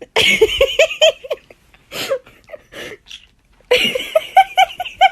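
Laughing in two quick runs of short, repeated 'ha'-like syllables, one at the start and another from just before the end, with a few single calls between.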